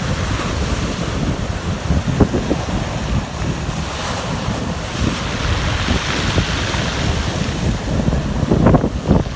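Wind buffeting the microphone over the wash of sea waves, with louder gusts about two seconds in and near the end.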